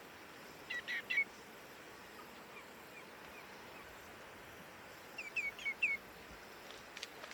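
Common greenshank calling: a quick group of three or four short whistled notes about a second in, then a run of four similar down-curling notes about five seconds in. A brief sharp call follows near the end.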